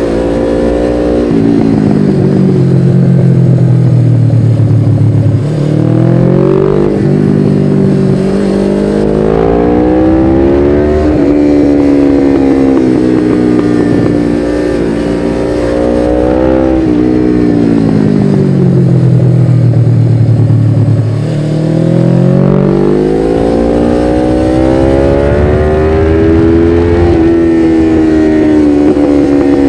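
Suzuki GS500E's 487 cc air-cooled parallel twin through a Takkoni slip-on exhaust with its dB-killer fitted, ridden on twisty roads. Twice the engine note falls away as the bike slows off the throttle, dips briefly, then climbs again as it picks up speed.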